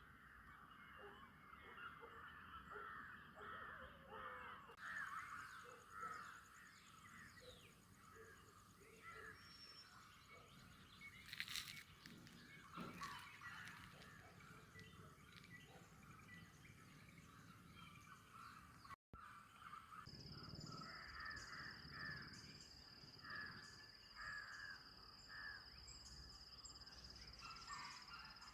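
Crows cawing in many short, overlapping calls, faint in the distance. After a break about two-thirds through, a steady high-pitched tone sounds alongside the calls.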